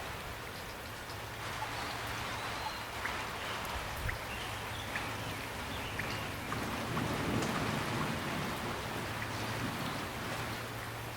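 Steady rain falling, an even hiss with scattered sharp drops striking a surface. A low rumble swells and fades a little past the middle.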